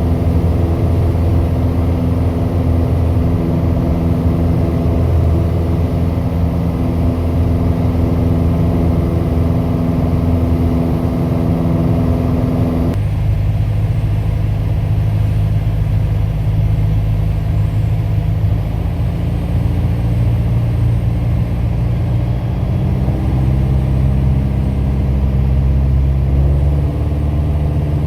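Light aircraft piston engine and propeller running steadily, likely the Piper PA-28 Warrior's four-cylinder Lycoming engine heard from inside the cabin. About halfway through, the note suddenly turns deeper and duller, as when power is reduced, and then runs on steadily.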